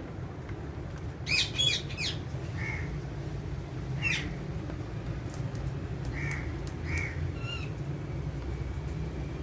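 Alexandrine parakeets squawking: a loud cluster of harsh calls about a second in, another sharp call near four seconds, then softer short calls, over a steady low hum.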